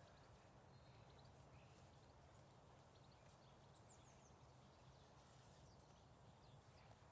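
Near silence: faint outdoor background with a low steady hum and a few faint, short, high chirps scattered through it, like distant birds.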